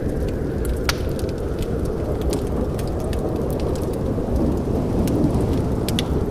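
Wood fire in a fireplace crackling: scattered sharp pops and snaps over a steady low rumble, with a louder pop about a second in and another near the end.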